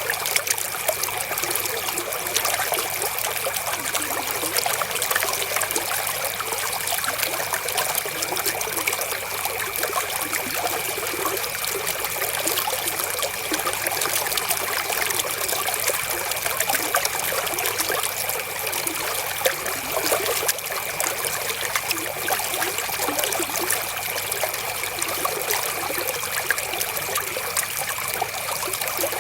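Flowing river water trickling and babbling steadily, with a thin, steady high tone running under it.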